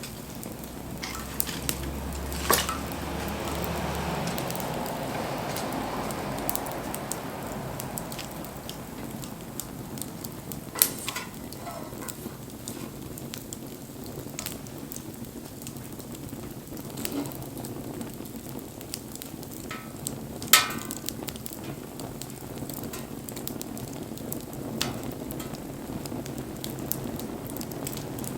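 Wood campfire burning, crackling steadily with a scatter of small snaps and three loud pops: about two and a half seconds in, about eleven seconds in, and about twenty seconds in.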